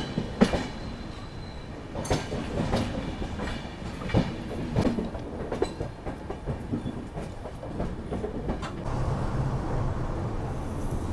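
Passenger train coaches rolling into a station, heard from an open coach doorway. Wheels clack irregularly over rail joints and points above a steady rumble, and the clacks thin out into an even rumble near the end.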